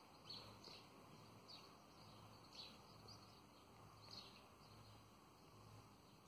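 Quiet outdoor ambience with faint bird chirps: short, high calls repeating every half second to a second.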